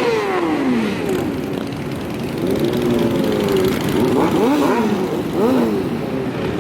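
Several motorcycles riding past one after another, their engines revving, each rising and then falling in pitch as it goes by. The loudest pass is about a second in.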